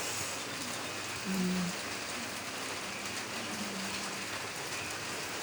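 Steady rain pattering, a continuous hiss with fine drop ticks, with a brief low hum about one and a half seconds in.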